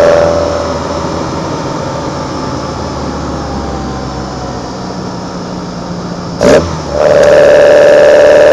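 Kadett GS 16-valve engine heard at its twin side-draft Solex carburetors. The throttle is lifted and the engine coasts with revs slowly falling for about six seconds. There is a short loud blip about six and a half seconds in, then the throttle opens wide again and the intake roar returns, revs climbing steadily.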